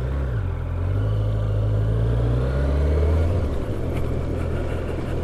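Motorcycle engine running while riding, with wind rush. Its low note eases off about two-thirds of the way through.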